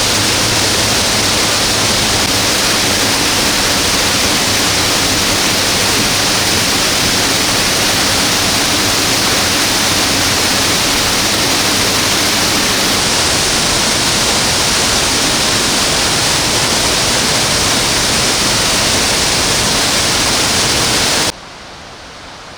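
Waterfall pouring close by: a loud, steady, even rush of falling water that cuts off suddenly near the end.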